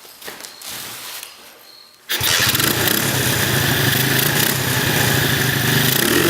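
Pit bike's small single-cylinder engine bursting into life about two seconds in and then running steadily, after its clogged carburetor has been cleaned and a little carburetor cleaner put into the cylinder to help it fire.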